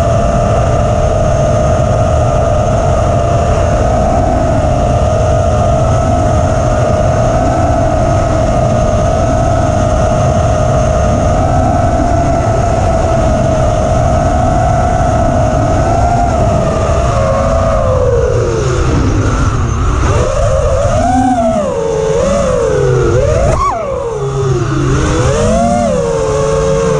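Armattan Rooster 5-inch FPV quadcopter's brushless motors (T-motor F40 III 2400kv) and propellers whining at a steady pitch, with wind rumble. After about 17 seconds the pitch drops, then rises and falls repeatedly as the throttle is worked.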